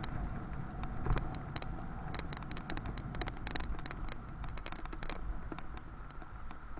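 Bicycle on the move: a steady low rumble of wind and road on the microphone, with many quick light clicks and rattles, thickest in the middle.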